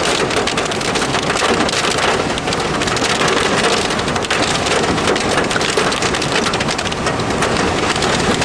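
Heavy rain coming down hard on a surface, a loud, steady, dense patter of drop impacts.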